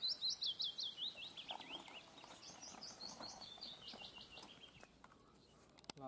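A small bird singing two fast runs of high, quick chirps, each run drifting lower in pitch and fading away.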